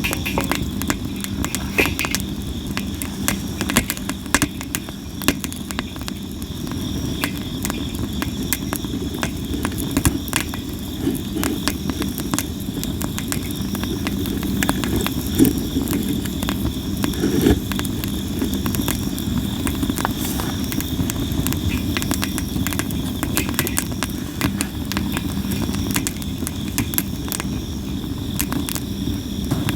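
Campfire of sawara cypress wood burning with a low rush of flame and constant crackling and popping, many sharp snaps throughout. Insects chirp steadily in the background, one with a repeating short trill.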